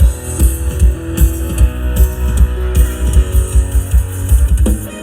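Loud live band music: guitar over a strong bass and drum beat.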